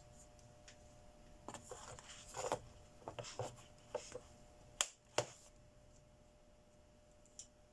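Handling noise at a workbench: a run of small clicks and rustles, ending in two sharp clicks close together about five seconds in, with one faint click near the end.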